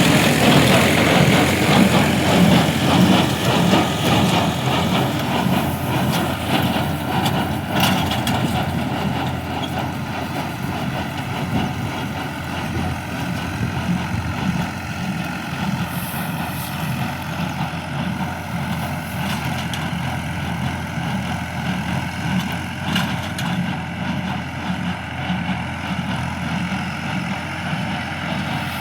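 Tractor running a square baler: a continuous engine drone with a pulsing, churning rhythm and an occasional knock, a little louder for the first several seconds.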